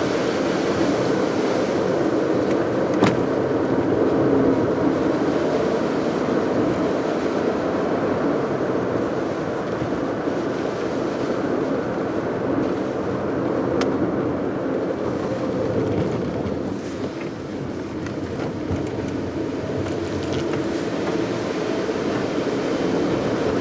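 Car driving along, with a steady rush of road and tyre noise over engine hum. A brief click comes about three seconds in.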